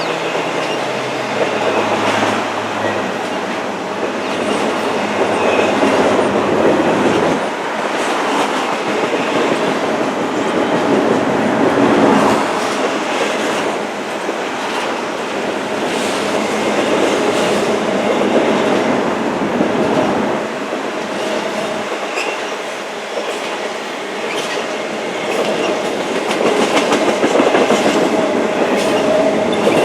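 Train cars rolling past on jointed track, wheels clacking steadily over the rail joints. A low engine hum falls in pitch and fades in the first few seconds as the locomotive moves away, leaving the rolling clatter of the cars.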